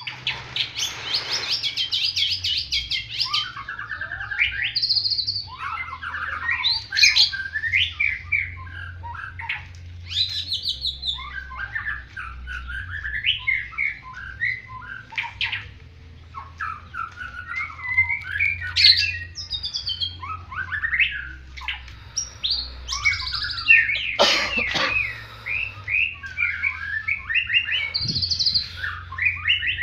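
White-rumped shama singing without pause: a fast, varied run of clear whistles, trills and chattering phrases, a style the owner likens to a bar-winged prinia's. A steady low hum sits underneath, and a couple of sharp clicks come near the end.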